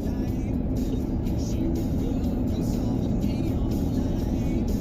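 Truck driving on the road: a steady engine and road rumble, with background music over it.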